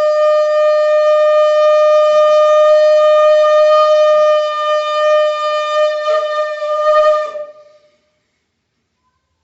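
Conch shell (shankha) blown in one long, steady, loud note that wavers near the end and dies away about eight seconds in.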